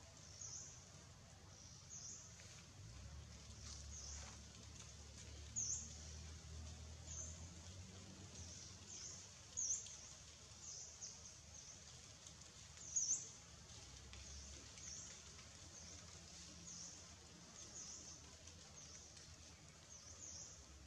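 Faint, high-pitched bird chirps repeating about once a second, three of them louder, over a low rumble in the first half.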